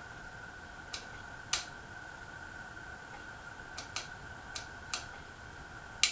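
Casablanca Panama 2 ceiling fan running with a steady high whine, while seven sharp clicks sound at irregular intervals, the loudest near the end.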